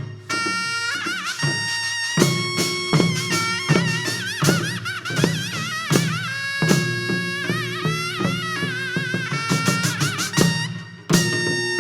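Korean traditional music for the Jindo drum dance: a reed wind instrument plays a wavering, ornamented melody over repeated drum strokes.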